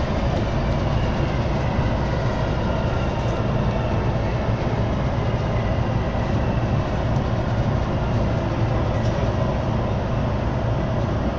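Commuter electric train running at speed, heard from inside the car: a steady, even rumble of wheels and running gear with no pauses.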